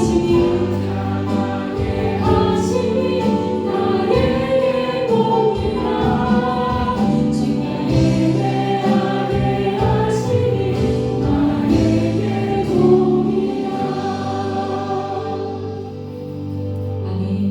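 Group of voices singing a worship song together over instrumental accompaniment with cymbal hits. The music eases down in level a couple of seconds before the end.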